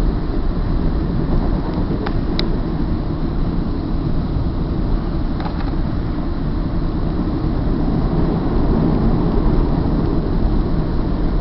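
Freight train rolling past on the adjacent track, heard from inside a stationary passenger coach: a steady low rumble with a few faint clicks.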